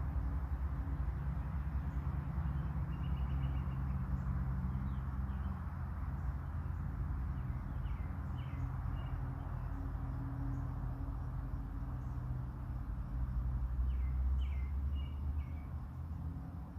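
A songbird calling in short chirping phrases, about four times, over a steady low rumble.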